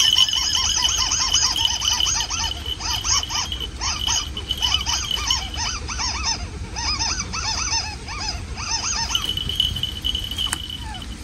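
Bird calls: short rising-and-falling notes repeated several times a second, stopping about two seconds before the end, over a steady high insect-like buzz.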